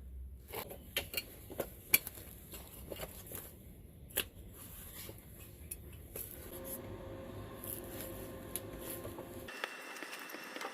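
Light metal clinks and knocks of tools and steel parts being handled. A faint steady hum starts about six and a half seconds in.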